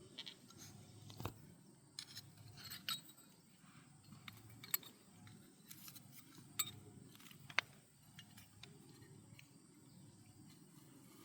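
Scattered light metallic clicks and clinks of tools and engine parts being handled, about a dozen irregular ticks, the sharpest a little past the middle, over a faint low hum.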